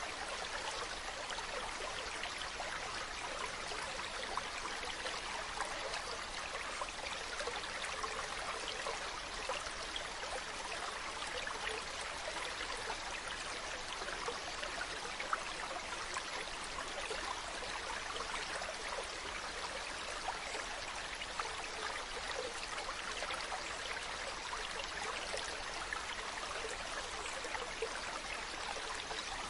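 A mountain brook running, a steady babble of water with many small trickles and splashes that does not let up.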